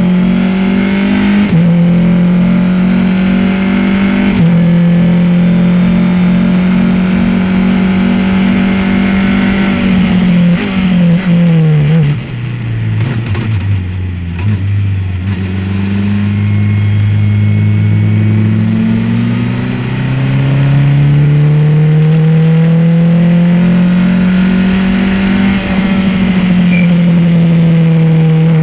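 Race car engine driven hard on track: it holds high revs with quick gear-change steps, drops in pitch about ten to twelve seconds in as the car slows, runs at low revs for several seconds, then climbs steadily again with another shift near the end.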